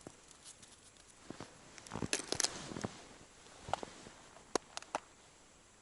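Scattered light clicks and knocks of handling, a small cluster about two seconds in and three sharp clicks near the end.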